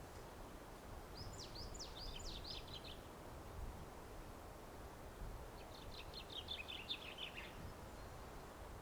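A small bird singing: a phrase of quick high notes sweeping downward about a second in, then a faster run of notes later, over steady low background noise.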